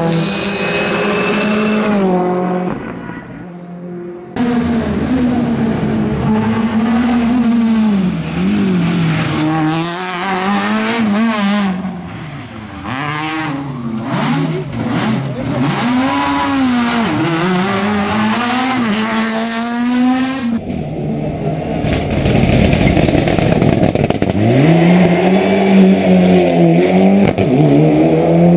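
Rally cars at racing speed, their engines revving high and dropping again and again through gear changes and braking as they pass, with some tyre squeal. The sound cuts abruptly from one car to the next a few times.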